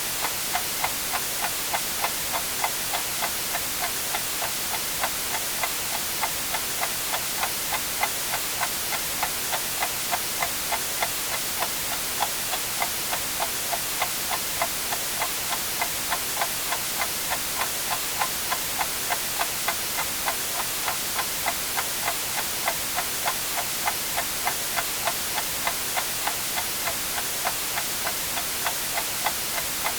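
Mechanical clock ticking evenly, about two ticks a second, over a steady bed of white-noise hiss.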